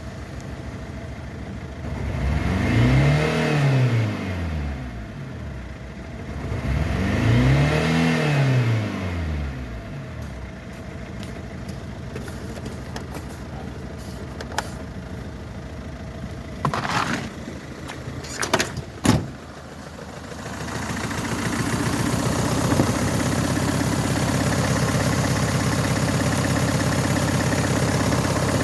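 Renault K9K 1.5 dCi four-cylinder turbodiesel idling, revved twice in the first ten seconds, each time rising and falling back to idle. A few sharp knocks come about two-thirds of the way in, and the engine then runs louder and steadier to the end.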